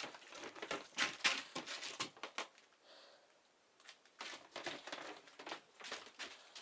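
Trowel scraping plaster across a wall in quick, irregular strokes, with a pause a little past the middle.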